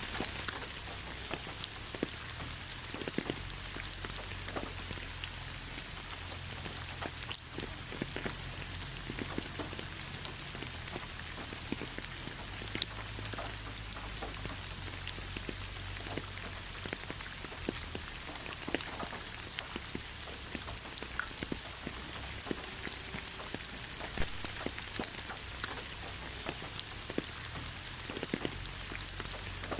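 Steady rainfall, a constant hiss with many separate drops ticking and pattering on nearby surfaces.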